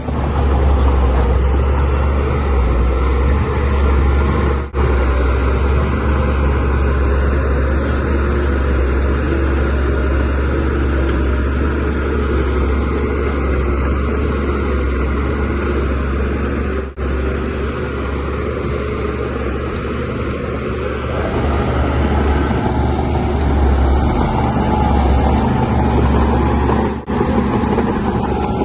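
Shantui DH17C3Pro bulldozer's diesel engine running steadily under load with a deep drone, working as it pushes soil. The sound swells a little for a few seconds near the end and drops out briefly three times.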